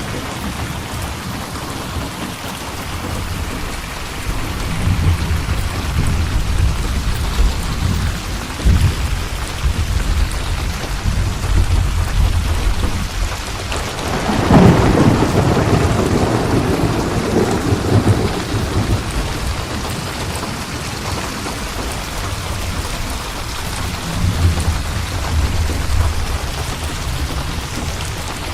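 Steady heavy rain with rolling thunder rumbling underneath; about halfway through, a louder thunderclap breaks and rolls off over several seconds, and the thunder swells again later.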